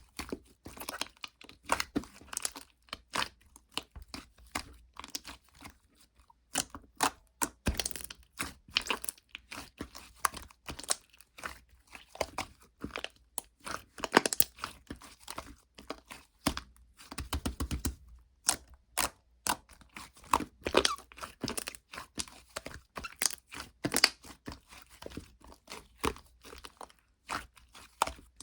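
Slime being squeezed, pressed and stretched by hand, giving dense, irregular crackling and popping clicks. There is a short run of quick low pops about two-thirds of the way through.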